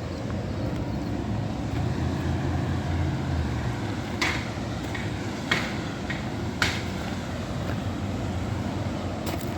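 Steady rumble of road traffic, with three short sharp clicks about a second apart midway through.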